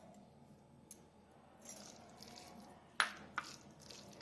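Spoon and bowl clinking as cardamom powder is added to a paneer cake batter: faint scraping, then two sharp clinks about three seconds in.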